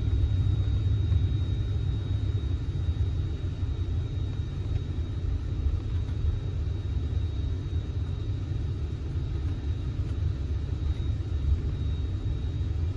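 1971 Oldsmobile Cutlass S on the move: a steady low rumble of engine and road noise, with no revving or sudden events.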